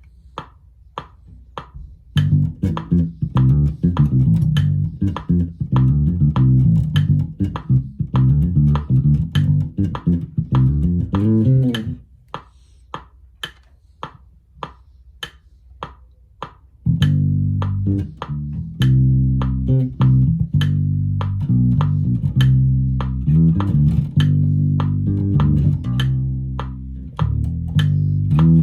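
Electric bass guitar played through a Roland Micro Cube Bass RX amp, improvising a bassline over the amp's built-in rhythm-box drum pattern. The drum pattern plays alone at the start and again for a few seconds around the middle.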